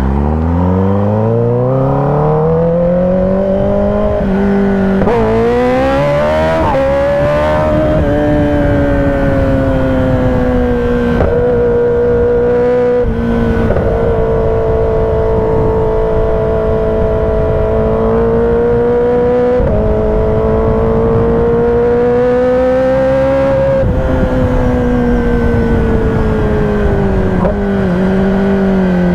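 Kawasaki ZX-10R inline-four engine under way, revving up hard from low speed and shifting up through the gears in the first several seconds. It then runs at fairly steady revs, climbs again, and the revs fall away steadily near the end as the bike slows.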